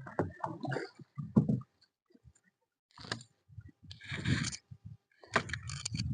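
Irregular knocks, scrapes and splashes of a paddle working a small boat backwards through the water, in uneven bursts with a short pause in the middle.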